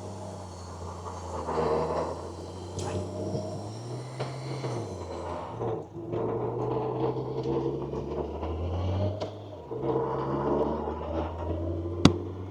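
1993 Honda Goldwing motorcycle engine running with a low steady hum, its pitch shifting up and down a few times, and a sharp click near the end.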